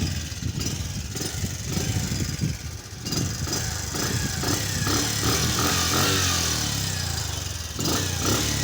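Motorcycle engine running and being revved so its sound can be checked: the pitch climbs from about four seconds in, drops back, then there is a short rev near the end.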